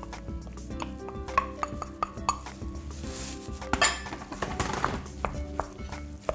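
Spoon stirring a thick pudding mixture in a mixing bowl, clinking and knocking against the bowl many times, with a longer scraping rustle about four seconds in.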